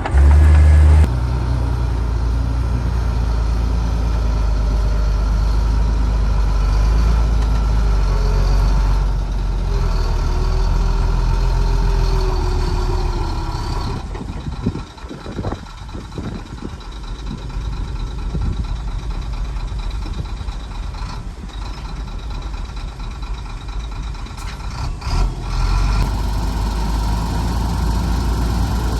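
Heavy diesel earthmoving machinery, a bulldozer and dump trucks, running steadily with a deep engine drone that shifts abruptly a few times.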